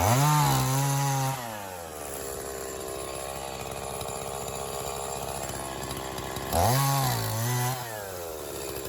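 Echo CS-501P 50cc two-stroke chainsaw idling, revved up to full throttle twice for about a second each, near the start and again near the end, dropping back to idle in between.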